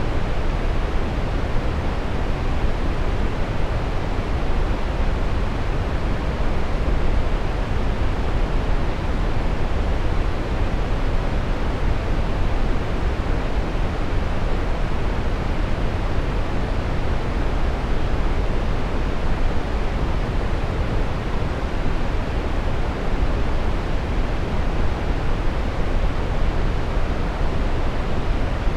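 Brown noise: a steady, even hiss weighted toward the low end, deep and rumbling with little treble, unchanging throughout.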